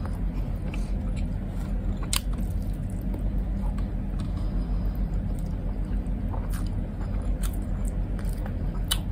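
A person chewing food with the mouth closed, with a few small sharp mouth clicks, over a steady low rumble of background noise.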